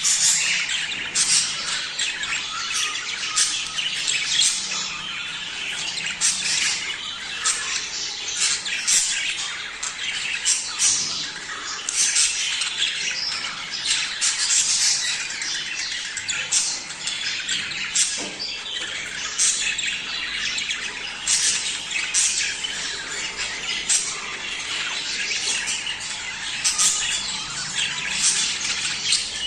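A flock of budgerigars chattering without a break, full of quick high chirps, warbles and sharp squawks. It is the busy breeding-season chatter of budgies.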